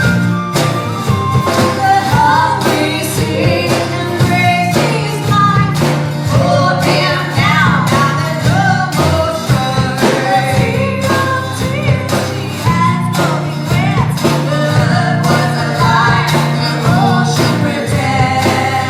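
A live band playing a country-rock song, with a steady drum beat and bass under a melody line that bends in pitch.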